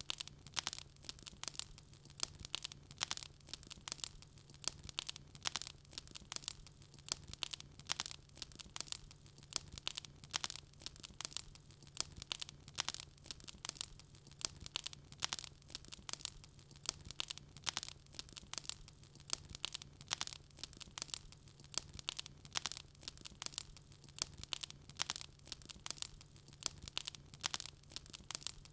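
Wood fire crackling steadily, with dense irregular pops and snaps and a faint steady low hum underneath.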